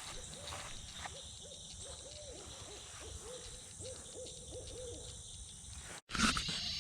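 Owl hooting: a quick, faint series of about a dozen short, evenly spaced hoots.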